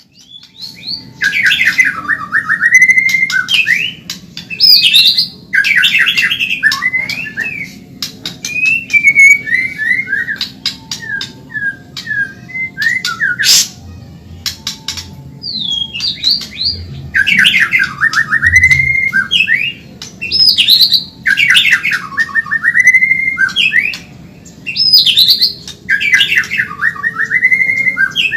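White-rumped shama (murai batu, Medan type) singing loudly in fast phrases: quick trilled runs that swoop down and back up, repeated every few seconds, with sharp clicking notes between them.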